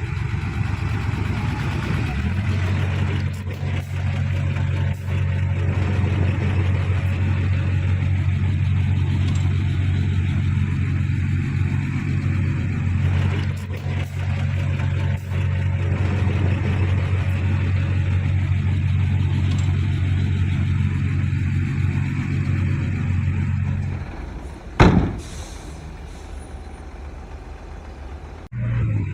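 Heavy diesel engine of an earthmoving machine or dump truck running steadily under load. Near the end the engine sound drops away to a quieter rumble, broken by one sharp bang.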